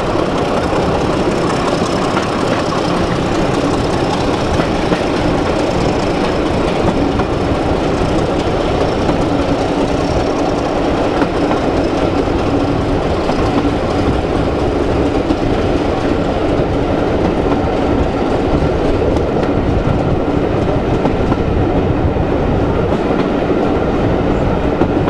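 Passenger coaches hauled by a Class 26 diesel locomotive running over the track, heard from an open carriage window: a steady rumble of wheels on rail with a clickety-clack over the rail joints.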